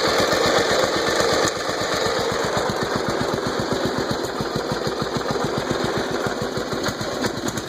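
Lawn mower engine running steadily with a rapid, even chugging exhaust beat, dropping a little in level about a second and a half in. It is the engine's run after being flooded with water and dried out.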